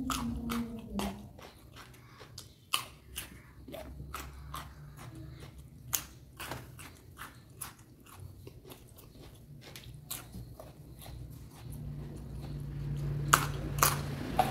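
A person chewing and crunching raw vegetables, with irregular crisp crunches. A low steady hum comes in near the end.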